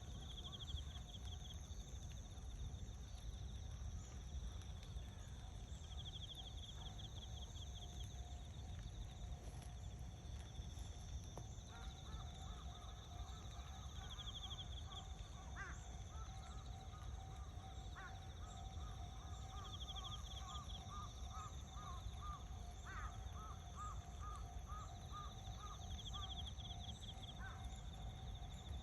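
A bird calling a run of short repeated notes, about two a second, with a few sharper single calls among them, over insects trilling in short bursts about every six seconds and a steady low rumble.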